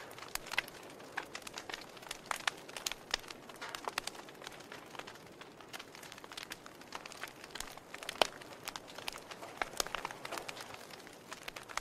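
Wood fire crackling: irregular sharp pops and snaps over a soft hiss, with one louder pop about eight seconds in.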